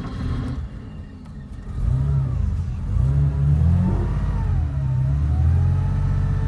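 1980 Porsche 911SC's air-cooled 3.0-litre flat-six starting from cold. It runs unevenly for about two seconds, then picks up and runs louder, the revs rising and falling before holding steady.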